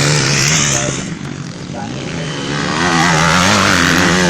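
Motocross bikes racing on the track, engines revving up and easing off in quick wavering cycles, with one bike loudest from a little before the end.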